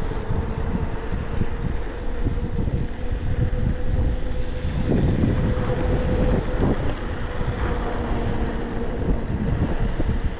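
Wind buffeting the microphone of a moving e-bike, over a steady road rumble, with a faint steady hum throughout.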